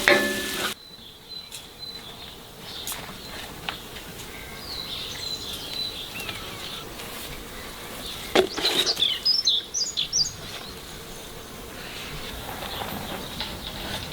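Music stops abruptly just under a second in, leaving outdoor ambience with a steady background hiss and birds chirping, loudest in a burst of calls about eight to ten seconds in.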